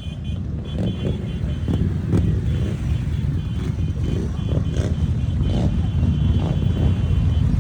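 Motorcycle engines running with a low, steady rumble that slowly grows louder.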